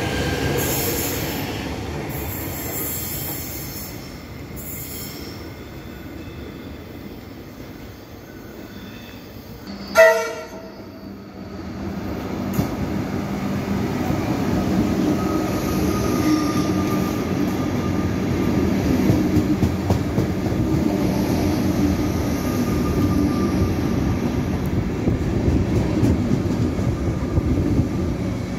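Suburban electric trains at a station. One train pulls out and fades over the first few seconds, and a short, loud train horn blast sounds about ten seconds in. Then a Comeng electric train runs in along the platform with a steady rumble of wheels and motors and a faint whine.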